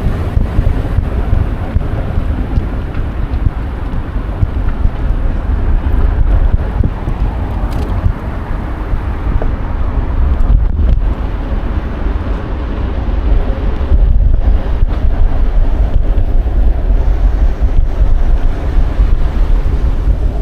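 Wind buffeting a DJI Osmo Action 4 action camera's microphone while riding a bicycle: a loud, steady low rumble.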